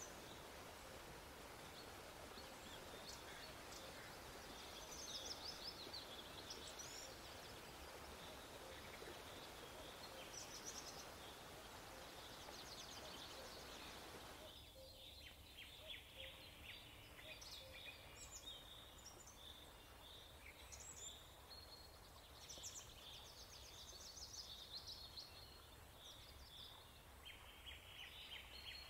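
Faint birdsong: small birds repeatedly chirping and giving quick high trills over a low hiss. The hiss drops suddenly about halfway through while the chirping carries on.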